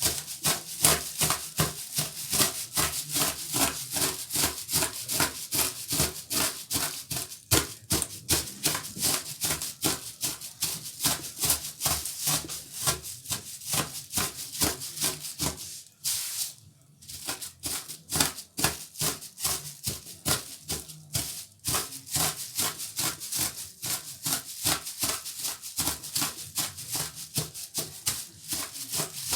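Rapid, even scraping and crunching strokes, about four a second, as nuts are broken up during cake preparation. They stop for about a second halfway through.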